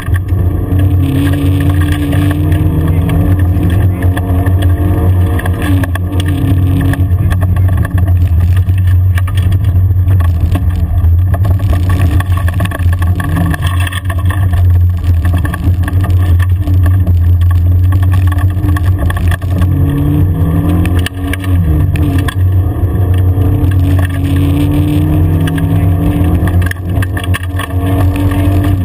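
Car engine heard from inside the cabin while driving fast on a gravel forest track: a loud, steady drone whose pitch climbs and drops a few times as the revs change, over tyre and road noise.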